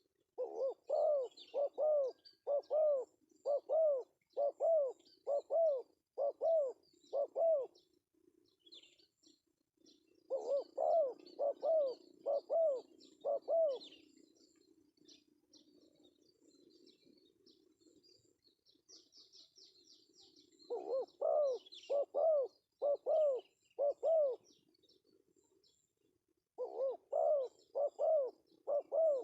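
Male spotted dove (tekukur) calling: runs of short, rising-and-falling coos, about one to two a second, in four bouts with pauses between them.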